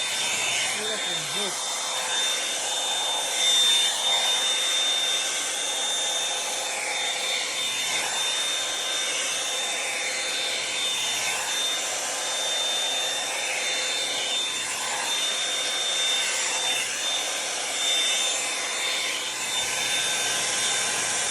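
Revlon One-Step hot-air brush dryer running continuously: a steady rush of air with a thin high whine on top, swelling and dipping slightly in level.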